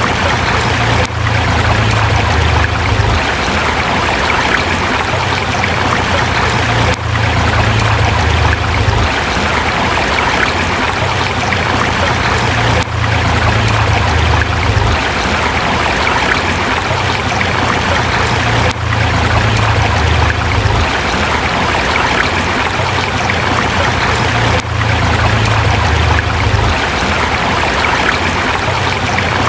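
Forest river flowing over rocks: a steady, dense rushing of water, with a low rumble underneath that swells and fades every couple of seconds.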